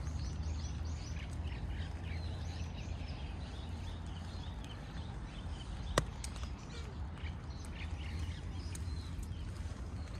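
Small birds chirping again and again over a steady low rumble, with a single sharp tap about six seconds in.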